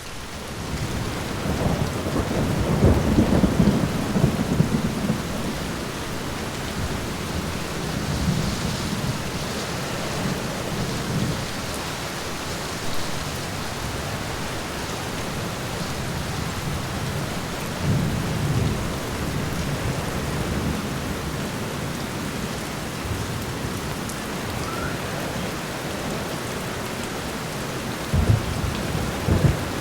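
Steady rain falling on a window, with low thunder rumbling four times, the loudest roll a few seconds in.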